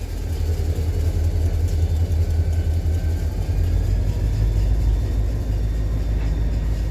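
Diesel-powered ballast train running: a loud, steady, deep engine rumble with no sudden changes.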